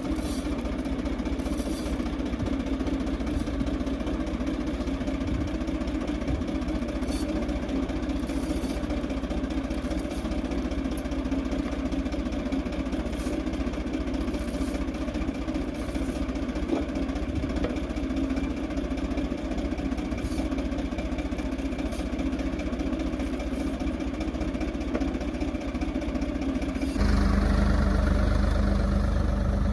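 Ford 3600 tractor's three-cylinder diesel engine running steadily under field work. Near the end the sound changes suddenly, becoming louder and deeper.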